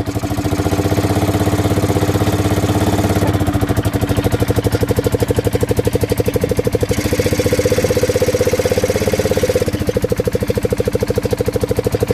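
Polaris Ute 570 engine idling at a raised idle, its revs lifted by a switched solenoid valve that bleeds extra air in behind the carburettor to ease severe engine braking. The engine's tone shifts a few times, about 3, 7 and 10 seconds in.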